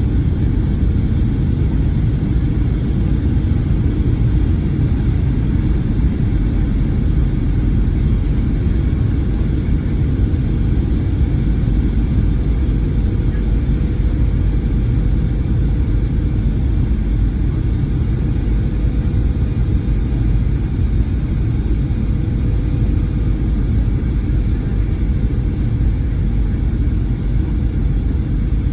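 Cabin noise inside a Boeing 737-900ER: a steady low rumble from its CFM56 jet engines and the airframe, with a faint steady whine above it.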